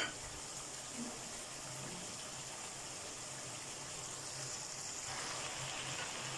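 Chicken pieces sizzling steadily as they fry in oil in a wok, an even hiss with a faint low hum underneath. The hiss grows slightly louder about five seconds in.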